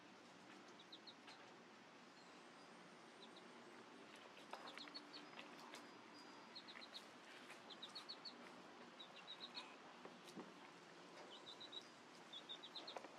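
Faint bird chirping: short high chirps in quick runs of three to five, repeating about every second, over a quiet background hiss.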